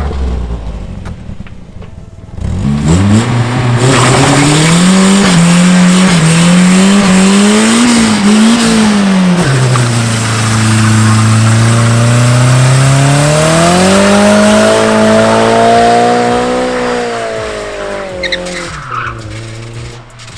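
Nissan 240's engine revved hard in a burnout, tyres spinning and squealing against a loud hiss. The revs bounce high, drop about ten seconds in, climb again and fall off near the end. The engine is being run hard on purpose to blow it before it is pulled.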